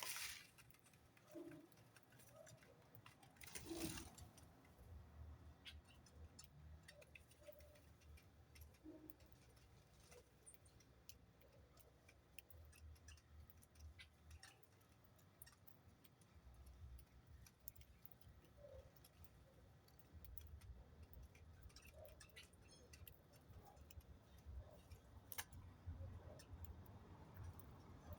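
Near silence with faint, scattered ticks and clicks and a few soft, short low calls from birds.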